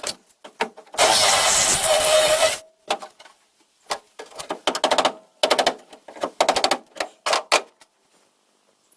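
A power drill with a spot weld cutter bores into the car's sheet-metal seat pan for about a second and a half, drilling out a spot weld. A run of quick, sharp metallic clicks and taps follows in irregular clusters, then stops near the end.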